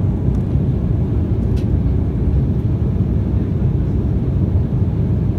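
Steady low rumble inside the cabin of an Embraer 195 jet airliner, from its two turbofan engines and the air and structure around the cabin.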